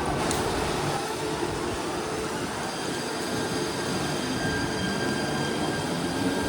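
Train running on the tracks: a steady rumble of wheels on rail, with a faint high whine that comes in about two and a half seconds in.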